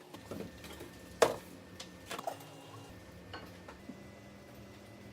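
A few light knocks and clicks of small objects being handled, with one sharper click about a second in.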